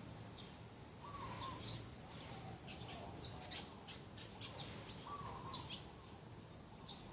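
Morning birdsong: several birds calling, with a lower short call about a second in and again past the middle, and a run of quick high chirps in between.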